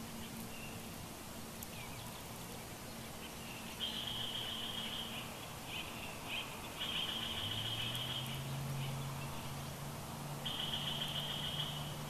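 A bird giving three rapid, buzzy trills, each about a second and a half long, with a few short chips between them. Underneath runs a steady low drone that rises a little in pitch past halfway.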